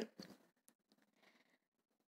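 Near silence: a pause in the narration, with room tone.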